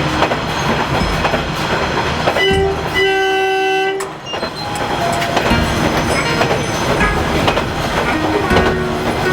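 Train running with steady rail noise and clatter; a horn sounds about two and a half seconds in and holds for about a second and a half.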